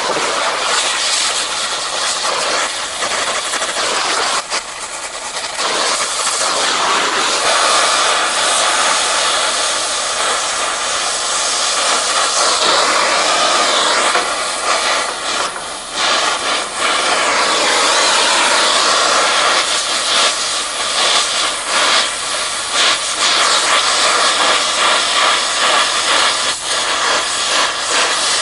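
Gas torch flame hissing steadily as it heats a half-inch steel rebar for bending, with a couple of brief dips in loudness.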